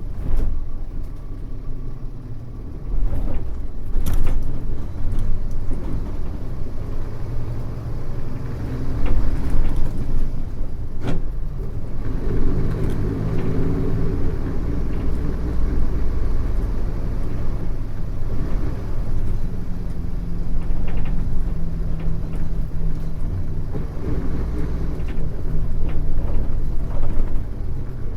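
Mitsubishi Fuso U-MK618J route bus's diesel engine running under way, heard from inside the bus, its note stepping up about three seconds in and changing again twice later on. A sharp click about eleven seconds in.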